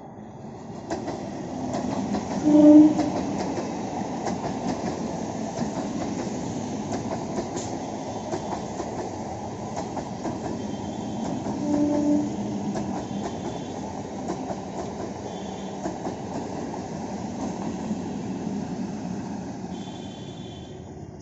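Electric multiple-unit suburban local train running past, a steady noise of wheels on rail with rapid clicks over the rail joints. Two short horn toots sound, the first about three seconds in and the loudest moment, the second about twelve seconds in.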